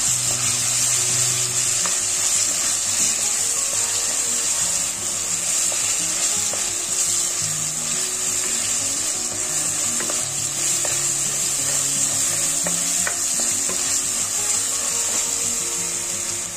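Crushed ginger and garlic with mustard seeds sizzling steadily in hot oil, stirred with a wooden spoon.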